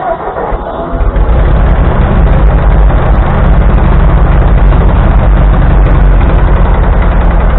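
1945 Ford 2N tractor's four-cylinder flathead engine picking up about a second in, then running loud and steady, kept going only by the choke being held.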